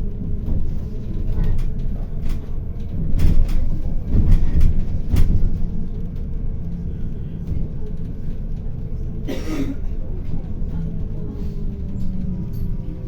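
City bus running, heard from inside: a steady low rumble with a faint motor whine, and several knocks and rattles from about three to five seconds in.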